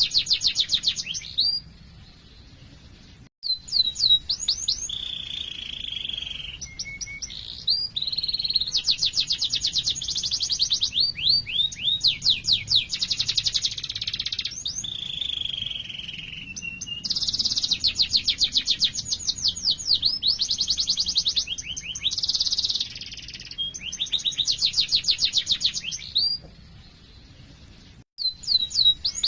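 Domestic canary singing a long song of fast rolling trills, rapid strings of repeated notes, alternating with steadier held phrases. The song drops out very briefly twice, once about three seconds in and once near the end.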